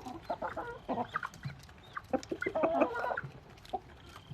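Several chickens clucking in short, scattered calls.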